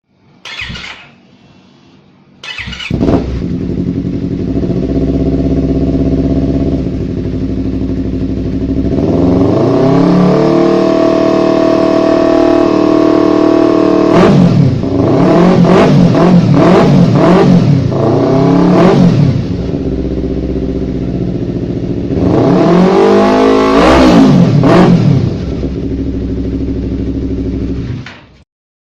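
Yamaha R25's parallel-twin engine through an aftermarket X-race exhaust: it starts about two and a half seconds in and idles, then is held at a higher steady speed. It is revved up and down several times in quick succession midway and again near the end, and the sound cuts off suddenly shortly before the end.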